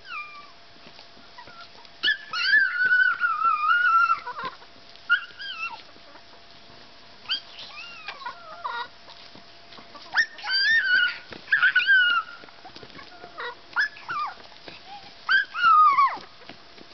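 A dog whining and whimpering in high-pitched, wavering bouts, about half a dozen in all, with short pauses between them.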